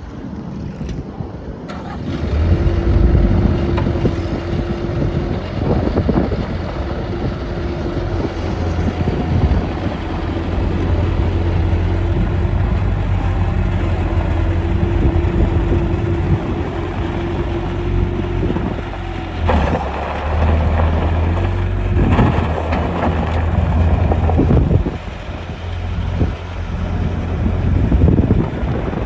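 Bobcat 753 skid steer's diesel engine starting about two seconds in and running with a steady low hum. In the later part, its sound rises and falls several times, with brief louder, harsher stretches.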